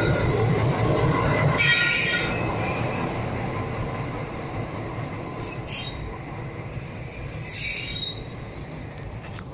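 Diesel locomotive moving slowly on yard track: a steady rumble of engine and wheels that gradually fades, with brief wheel squeals on the rails about two seconds in and again, shorter, later on.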